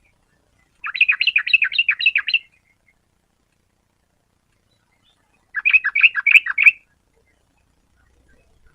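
Yellow-vented bulbul singing: two short phrases of rapid chattering notes, each about a second long, some four seconds apart.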